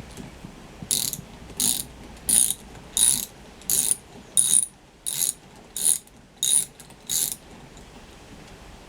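Ratchet wrench being worked back and forth: ten short bursts of fast clicking, about one every 0.7 seconds, then it stops about seven seconds in.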